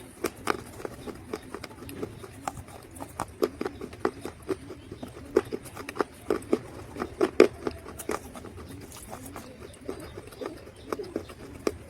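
Dry mud crunching and crumbling in a series of sharp, irregular cracks, some louder than others, with no steady rhythm.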